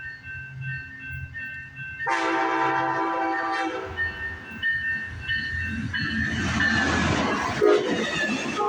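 Amtrak ALC42 Charger diesel locomotive blowing its multi-chime horn, faint at first and then loud from about two seconds in. From about six seconds in the train arrives and passes with a loud rush of wheel and engine noise.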